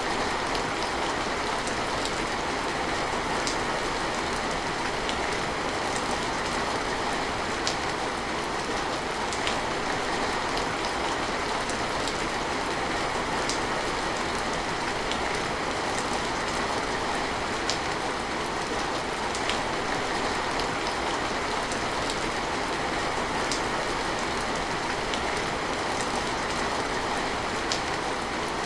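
Steady rain falling, an even hiss, with scattered sharp ticks of single drops landing at irregular moments.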